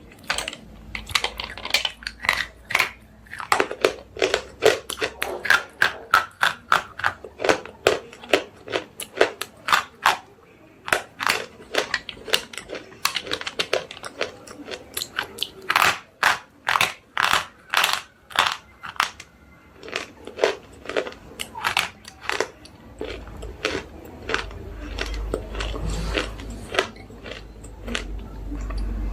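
Slate pencils being bitten and chewed close to the microphone: rapid, crisp crunches, several a second. A low rumble joins in for the last few seconds.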